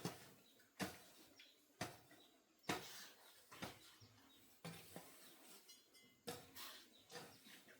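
Regular sharp knocks from a hand tool at work, about one stroke a second, each dying away quickly.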